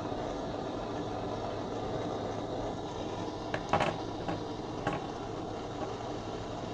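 Handheld butane kitchen blow torch burning with a steady hissing flame while it heats a car door control module's circuit board. A few light clicks and knocks come in the middle.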